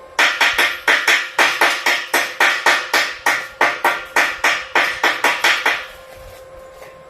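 A hammer striking metal in a rapid, even series of sharp blows, about four a second, for nearly six seconds, then stopping. A faint steady hum runs underneath.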